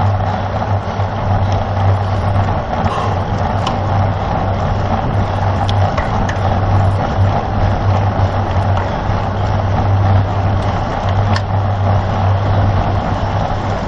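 Steady wind rush and road noise on a bicycle-mounted camera riding at speed in a road race, with a low, slightly pulsing hum and a few faint clicks.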